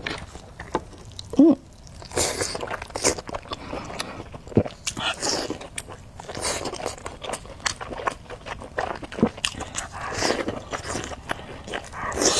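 Close-miked eating sounds: a person biting and chewing crunchy food, with irregular crisp crunches.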